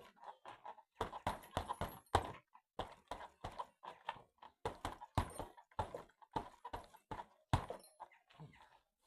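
Punches landing on the padded targets of a home striking trainer: a quick, uneven run of thuds, about two to three a second, that thins out near the end.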